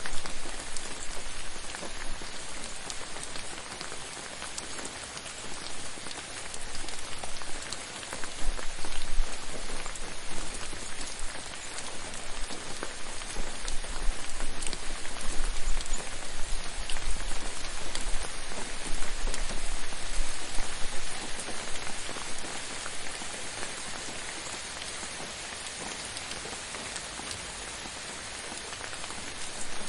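Steady rain falling on a surface, a dense patter of drops with many small individual ticks, swelling louder through the middle and easing off toward the end. A faint low rumble runs underneath for a while in the middle.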